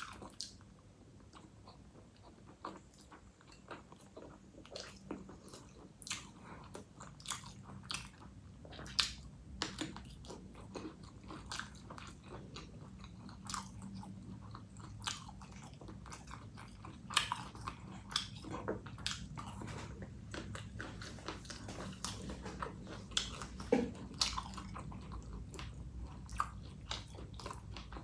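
A person chewing and biting food, with irregular sharp mouth clicks, the loudest about 9, 17 and 24 seconds in.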